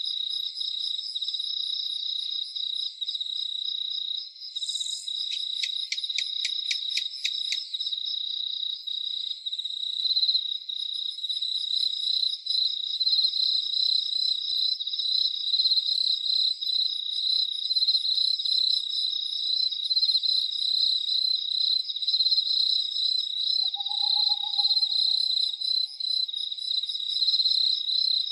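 Night crickets chirping in a dense, continuous high trill. A quick run of clicks sounds a few seconds in, and a single short, lower call comes near the end.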